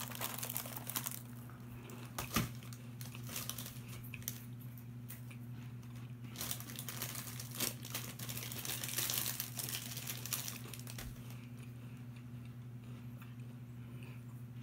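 Honey graham crackers being chewed with crisp crunching, along with crinkling of plastic snack packaging being handled, over a steady low hum.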